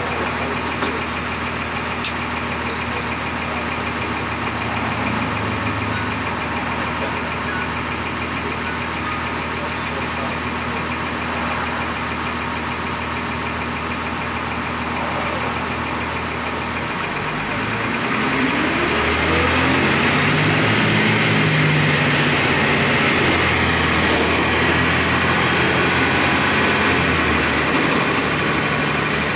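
Cummins ISC diesel engine of a 2002 Blue Bird CS transit bus idling steadily, then a little over halfway through revving up as the bus pulls away, rising in pitch and getting louder. A high whine comes in as it accelerates, holds, and slowly drops away near the end.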